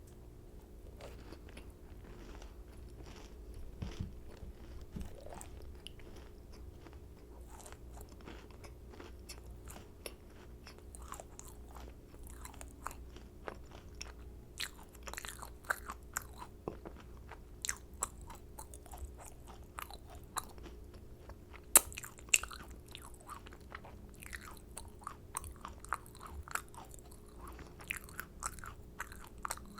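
A person biting and chewing macarons: crisp shells crunching and short, wet chewing clicks, coming thicker from about a third of the way in, with one sharp, loud crunch a little past the middle.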